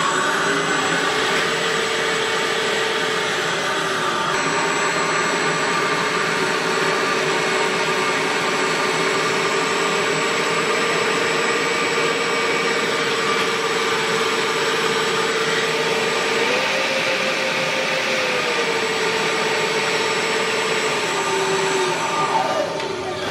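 4500KV brushless RC jet motor spinning its fan at high speed: a steady whirring whine whose pitch shifts up and down slightly a few times.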